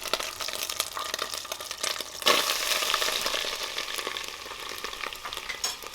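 Onions and tomato paste frying in hot oil: a steady crackling sizzle, with a sudden louder surge of sizzling a little over two seconds in.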